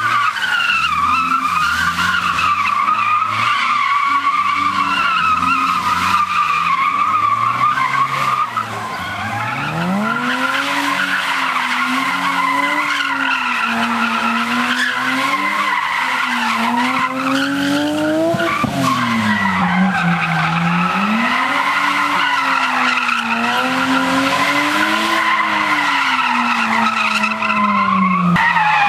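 Car engine revving up and down over and over as it is driven hard around a tight cone course, with the tyres squealing and skidding through the turns.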